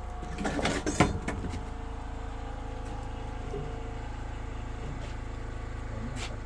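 An engine running steadily, with a burst of clatter and one sharp knock about a second in.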